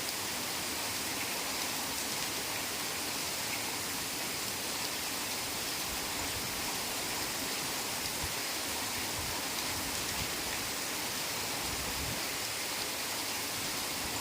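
Heavy rain falling steadily in a forest, an even dense hiss with no let-up.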